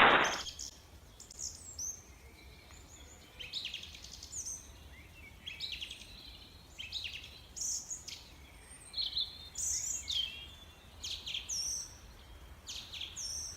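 A small bird singing: short, high chirps and quick sweeping notes, repeated irregularly every second or so.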